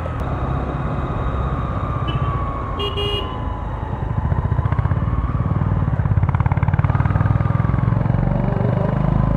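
A 125cc motorcycle engine running on the move, with a short horn toot about three seconds in. From about four seconds in the engine gets louder and its pulsing quickens as the bike speeds up.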